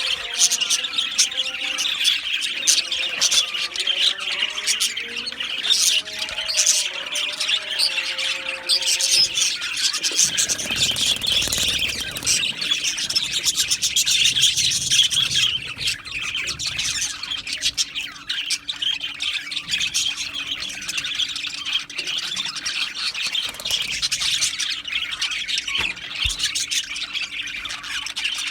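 A flock of budgerigars chattering, chirping and squawking continuously, with lower warbling notes through roughly the first third. A brief low rumble comes about ten seconds in.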